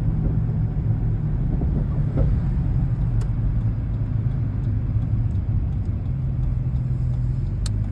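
Steady engine and road noise heard from inside a vehicle towing a loaded trailer: a low hum whose pitch shifts slightly about six seconds in.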